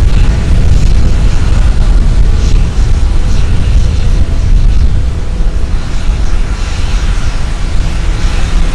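Embraer A-29B Super Tucano turboprop aircraft running loud, a steady deep rumble with propeller noise that eases a little about five seconds in.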